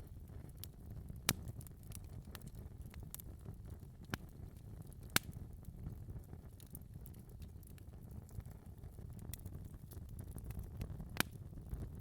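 Wood fire burning in a fireplace: a low steady rumble of flames with scattered crackles and a few sharp louder pops.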